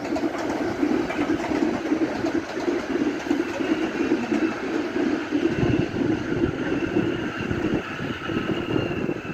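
Electric trains running past: a steady rumble of wheels on rail with a faint high whine that slowly falls in pitch, and a heavier low rumble from about halfway through.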